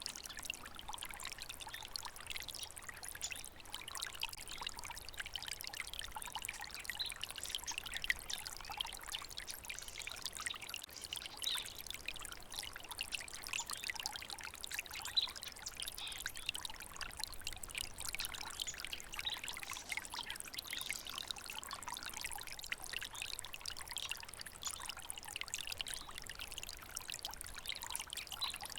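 A water stream flowing steadily, with a continuous patter of small splashes.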